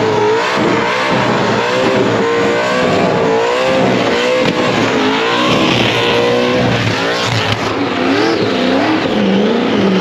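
Supercharged burnout-car engine with a 10/71 blower, revved up and down over and over at high load while the tyres spin, with a haze of tyre noise under the engine.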